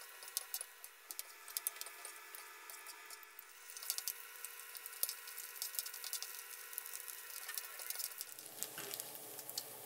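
Sun-dried pork deep-frying in hot oil in a wok: a steady sizzle with many fine crackling pops. A lower steady noise joins about eight seconds in.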